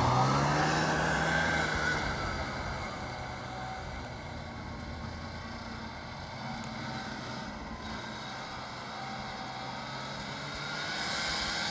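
A motor vehicle engine running under throttle. Its pitch glides up in the first second or so, then it fades over the next few seconds, runs steady and fainter, and grows louder again near the end.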